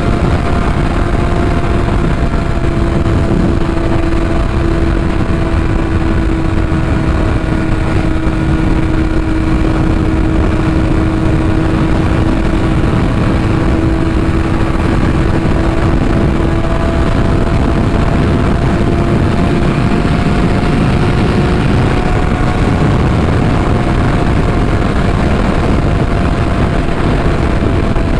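Kawasaki ZX-6R inline-four with a Yoshimura exhaust running at a nearly steady cruising pitch while riding, with heavy wind noise rumbling on the rider's microphone.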